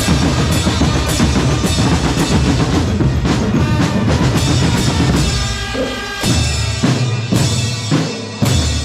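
Marching percussion group drumming, snares and bass drums together. A fast, dense pattern breaks about five seconds in into sparser, separated accented hits with deep bass-drum booms.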